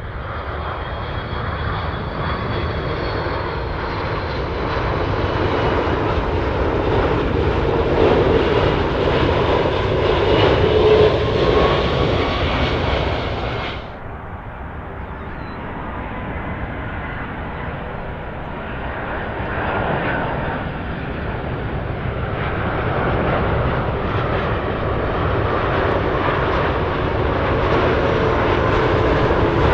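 Jet airliner engines during landings: the four-engined Airbus A380 swelling louder and then cutting off abruptly about halfway through, followed straight away by a twin-engined Airbus A330 whose engine noise builds steadily as it comes in.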